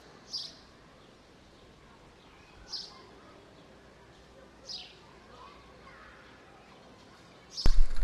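A bird chirping three times, about two seconds apart, each a short high call falling in pitch, over faint background noise. Near the end a loud low rumble starts suddenly.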